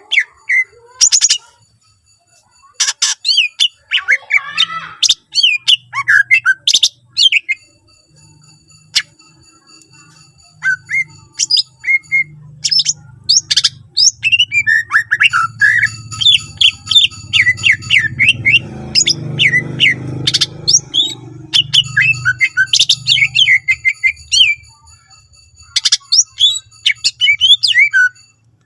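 Cucak ijo (green leafbird) singing hard in rapid runs of sharp chirps and whistles, with short pauses between bursts. A low hum sits underneath through the middle.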